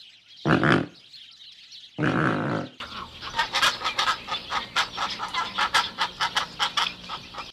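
Pelican calls: two short, low honks, then a quick run of short calls, several a second, over a steady background hiss.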